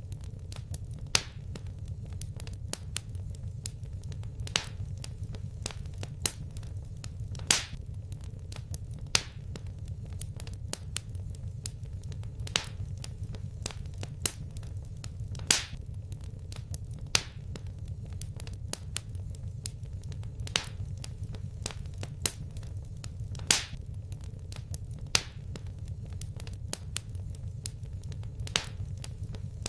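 Wood fire crackling in a fireplace: a steady low rumble of burning with sharp pops and snaps about every one and a half seconds.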